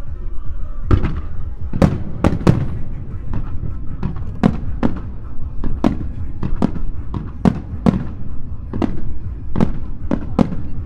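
Aerial fireworks shells bursting in a rapid barrage, sharp bangs at roughly two a second beginning about a second in, each with a short echoing tail.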